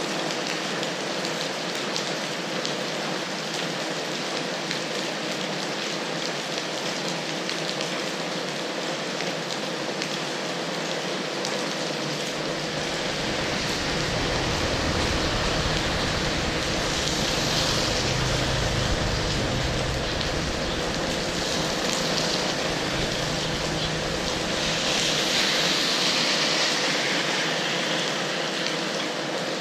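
Rain falling steadily and heavily, a dense even hiss. About halfway through, a low rumble joins in for several seconds, and the hiss swells louder twice.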